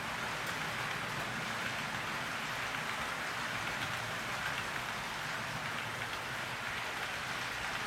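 HO scale model freight train with steel wheels rolling along the layout track: a steady, even rolling hiss.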